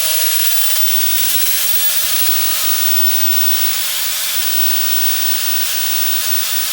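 A power tool's cut-off wheel grinding through a steel drive-chain link: a steady, loud hiss of grinding with one steady whine held under it.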